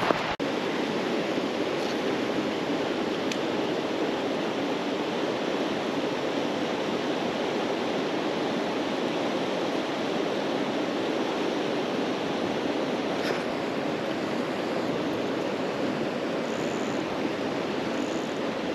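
River water rushing steadily, an even hiss of current with no break. Two short high peeps sound near the end.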